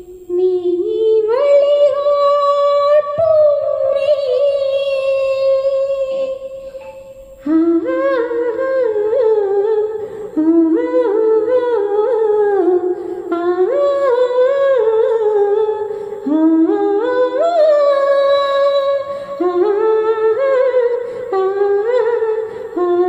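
A single high voice humming a slow melody without accompaniment: a long held note in the first few seconds, then a series of short rising and falling phrases.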